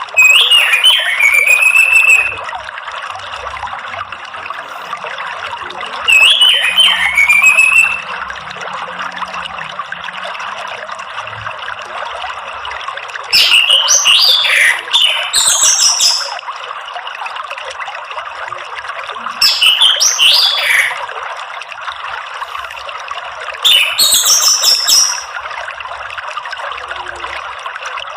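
Orange-headed thrush singing in five short phrases of gliding whistles and high trills, a few seconds apart, over steady trickling water.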